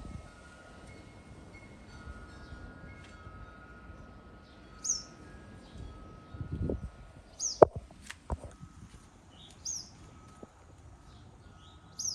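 A bird calling: a short, high chirp that slides downward, repeated about every two and a half seconds. About seven and a half seconds in, two sharp clicks stand out above it.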